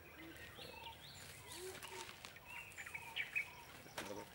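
Birds chirping and calling, with many short rising and falling notes over a faint background hum of the surroundings.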